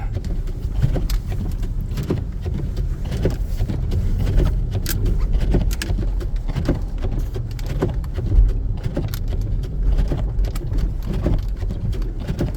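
2014 Jeep Grand Cherokee driving slowly off-road over snow and downed branches: a steady low rumble, broken by frequent knocks and cracks as the tyres roll over the branches.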